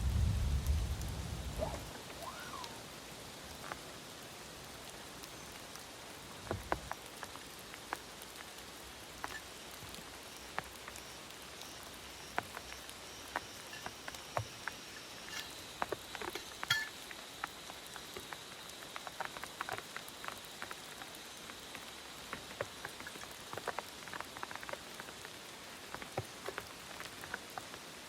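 Rain falling steadily, an even hiss with many sharp individual drops ticking on a nearby surface. A low rumble of thunder dies away in the first two seconds.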